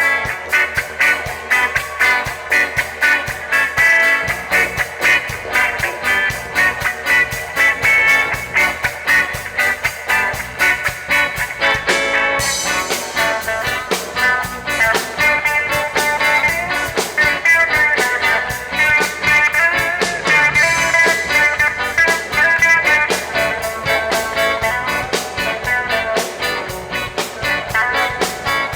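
Live reggae band playing with guitar over a steady beat, with a bright crash-like wash of high sound coming in about twelve seconds in.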